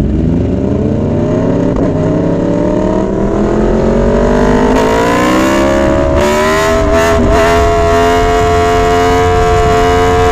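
2022 Yamaha R1's crossplane inline-four engine revving under acceleration. Its pitch climbs steadily for about seven seconds, then holds at a constant high pitch.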